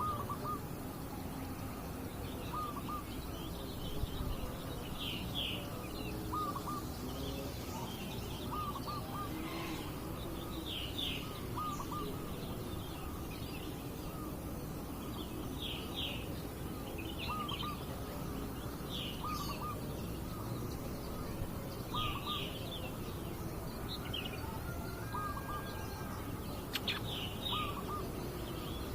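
Long-tailed shrike (cendet) calling over and over: short chirps in groups of two or three, repeated every second or two, over a steady background hiss.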